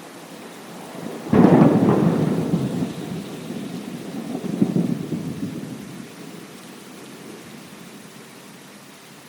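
Steady rain with a thunderclap that breaks in suddenly about a second in and rolls into a low rumble, swelling again a few seconds later before dying away under the rain.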